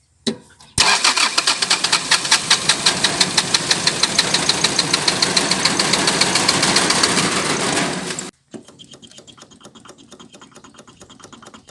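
Toyota 1C four-cylinder diesel engine turning over and running loud, with a fast, even knocking pulse, then cutting off sharply about eight seconds in and leaving a faint rhythmic ticking. It is an engine that is hard to start, noisy and shaking, which the owner later puts down to strong blow-by.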